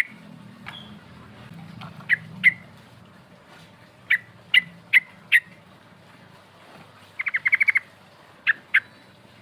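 Yellow-vented bulbul (trucuk) calling: short, sharp chirps spaced about half a second apart, with a quick run of about seven notes a little after seven seconds in.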